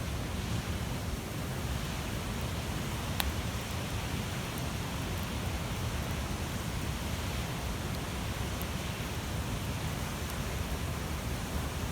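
Large wood bonfire burning: a steady rushing roar of flames with occasional sharp crackles, one louder pop about three seconds in.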